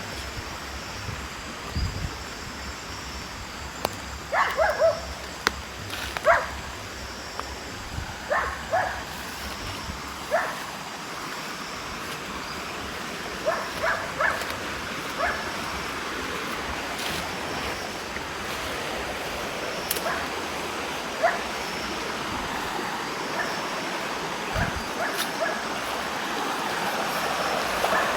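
A dog barking now and then in short clusters of a few barks, over the steady rush of running water.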